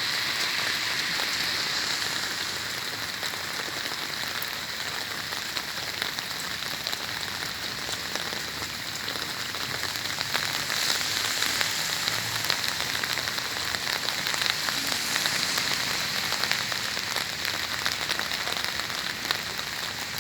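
Steady rain falling: an even hiss of countless small drop impacts, with no let-up.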